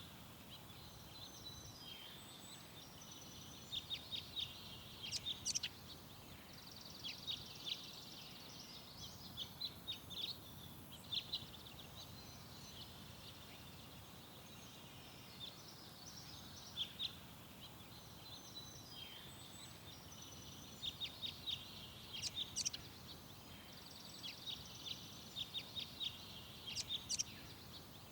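Garden songbirds singing: short phrases of quick, high chirps and trills recurring every few seconds, over a steady low background hum.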